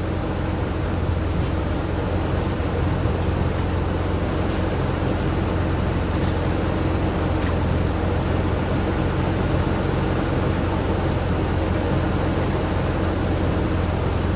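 Jeep Liberty's six-cylinder engine idling steadily. It is running evenly with its misfire gone after an ignition coil swap.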